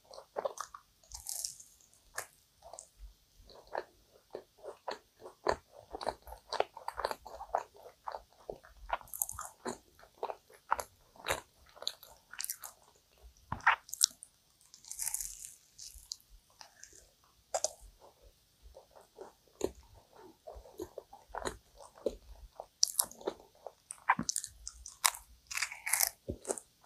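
Biting into and chewing flaky, caramelised kouign-amann pastry close to the microphone: irregular crisp crunches and crackles of the crust, with chewing in between.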